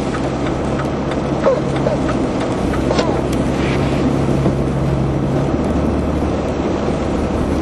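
Four-wheel-drive vehicle driving on a slushy, snow-covered street, heard from inside the cabin: a steady hiss of tyres and road with a low engine hum whose pitch shifts partway through.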